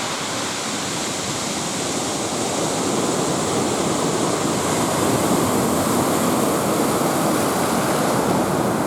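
Heavy surf breaking and washing without a break, growing a little louder about halfway through: a rough sea with big waves stirred up by Typhoon No. 1.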